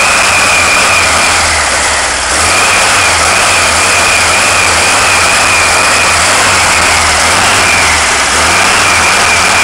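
Freshly built 1776 cc air-cooled VW flat-four with a mild cam, EMPI 40 HPMX carburettor and headers, running loud and steady on its first start-up. A high wavering whine rides over the engine, and the level dips briefly about two seconds in.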